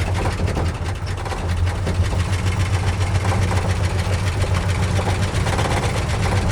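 1976 Ford F-250's 390 FE V8 idling steadily through new headers and exhaust. It is a worn engine, low on compression in two cylinders and smoking.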